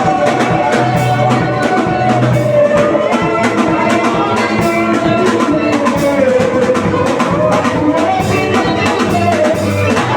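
Upbeat worship music with a drum kit beating a fast, steady rhythm under a held, slowly wavering melody line.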